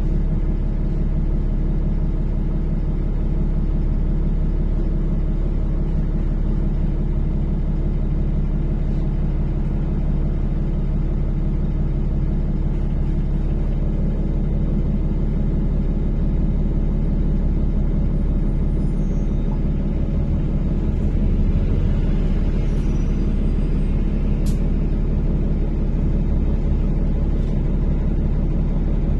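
NefAZ-5299 city bus under way, heard from inside the passenger cabin: a steady drone of engine and drivetrain with road rumble.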